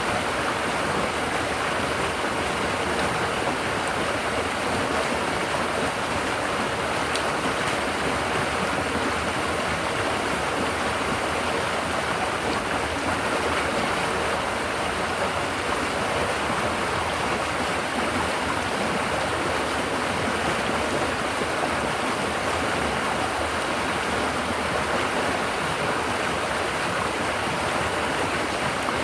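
River water babbling steadily as it flows over rocks and against the bank.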